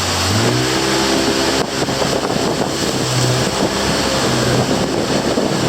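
A motor engine running steadily, with wind noise on the microphone.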